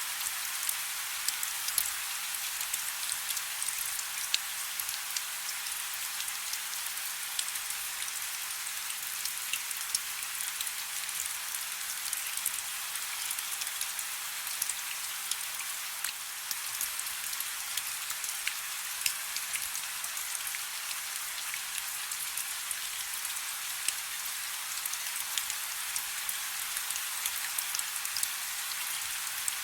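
Soft rain falling steadily: an even hiss with many scattered sharp ticks of single drops.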